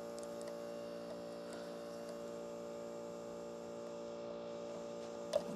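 Steady electrical hum, with a few faint metal clicks and one sharper click near the end as a small screwdriver pries at a chainsaw clutch's E-clip.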